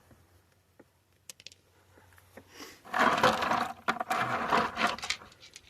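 Rocks scraping and clattering in a bucket of rainwater as they are rummaged through, loud for about two seconds starting some three seconds in, after a few faint clicks.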